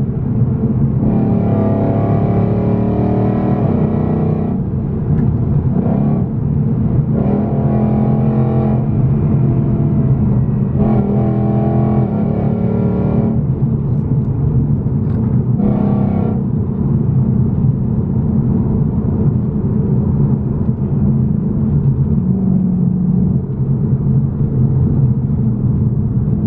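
Supercharged Ford Mustang V8 accelerating hard in about five repeated surges, then running more steadily and less loudly.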